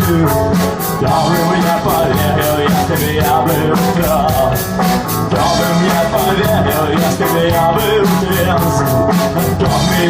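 Live rock band playing an instrumental passage: electric guitars and bass over a drum kit, with the cymbals struck about four times a second.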